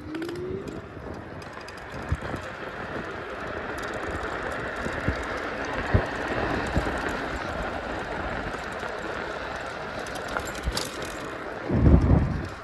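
Travel noise of a moving vehicle: a steady rushing rumble with scattered rattles and knocks. A short rising engine note sounds at the start, and a loud low rumble comes near the end.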